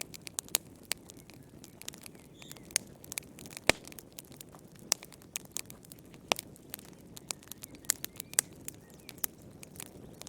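Wood fire crackling: irregular sharp pops and snaps over a soft low rumble, with one louder pop a little under four seconds in.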